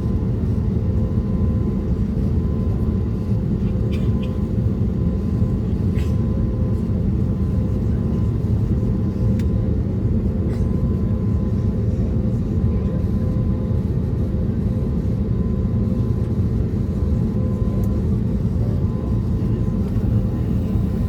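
Steady cabin noise of an Airbus A320neo with CFM LEAP-1A engines, heard from inside the economy cabin: a dense, even low rumble with a faint steady hum above it.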